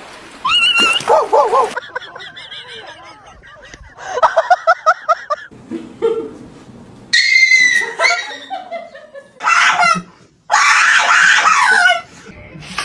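High-pitched squeals and laughter in several short bursts, one of them a quick run of 'ha-ha' pulses about four seconds in.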